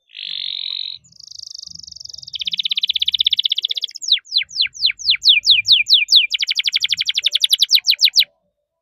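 Domestic canary singing a fast, varied song: a short buzzy phrase, then rapid rolling trills. In the middle comes a run of whistled notes, each sweeping steeply downward, about four a second, and the song ends in another quick trill that stops abruptly near the end.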